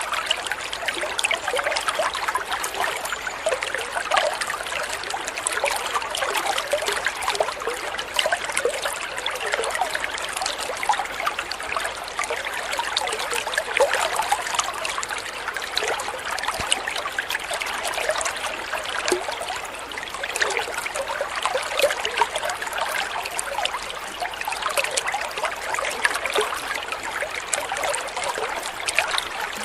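Water trickling and splashing steadily over stones: a small stream or fountain burbling, with a constant patter of fine droplets.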